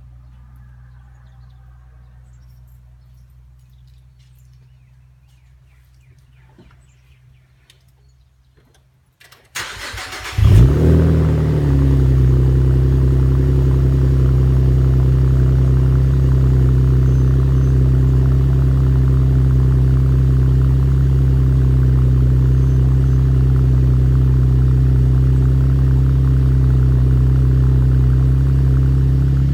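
A faint low hum, then about nine and a half seconds in a 2014 Camaro's 3.6-litre LFX V6 cranks briefly and catches with a quick rev flare, dropping within a couple of seconds to a steady fast idle: a cold start heard through an MRT V2 exhaust with 4-inch quad tips.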